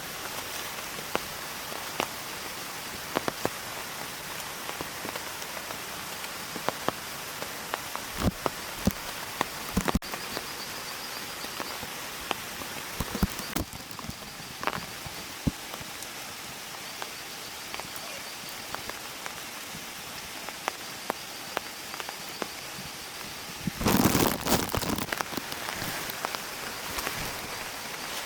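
Steady rain, with single drops ticking sharply on a nearby surface over an even hiss. About 24 seconds in, there is a louder rustle lasting a second or two.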